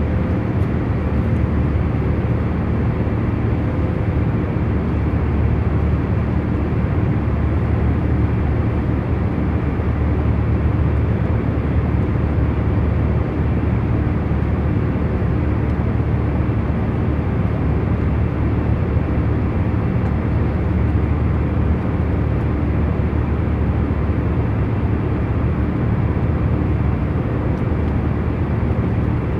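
Steady airliner cabin noise in cruise flight: a constant low rumble and hum of the engines and airflow, unchanging throughout.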